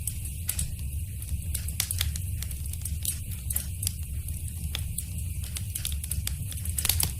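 Wood fire crackling in a fireplace: irregular sharp pops and snaps over a steady low rumble of the flames, with a cluster of louder pops about seven seconds in.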